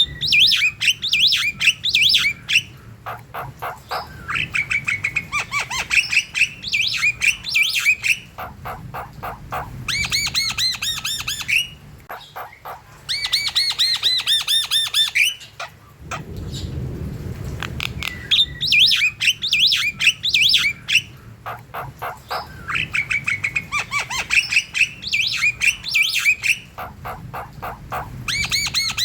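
Javan mynas singing in full, excited song: bursts of rapid clicking rattles alternating with harsh squawks and whistled notes, in phrases of a few seconds with short pauses between them.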